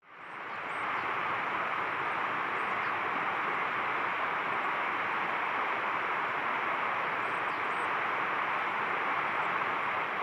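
Steady rushing noise with a few faint, short, high chirps over it.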